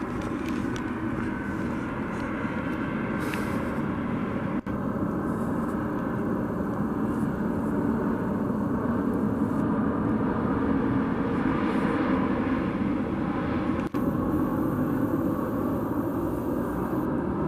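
Airplane engine running with a steady drone, broken twice by very brief dropouts, about four and a half and fourteen seconds in.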